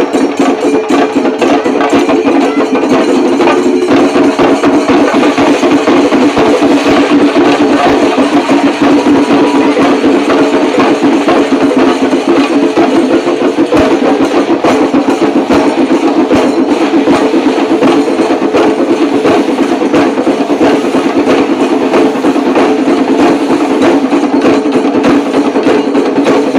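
Chenda drum ensemble playing the kalasham, the fast climactic finale of a Kerala festival melam: dense, rapid drum strokes without a break over a steady droning tone.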